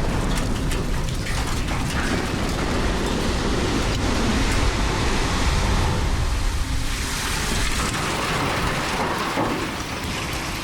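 Power-plant concrete cooling tower collapsing in a demolition: a continuous heavy rumble with crackling of falling debris, easing slightly near the end.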